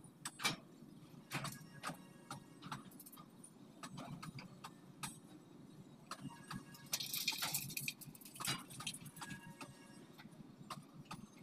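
Freight hopper wagons rolling past on the track: the wheels click and clatter irregularly over a steady low rumble. A louder rush of high hiss lasts about a second, around seven seconds in.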